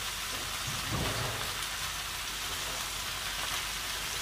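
Ridge gourd pieces frying in mustard oil in a pan, a steady sizzling hiss.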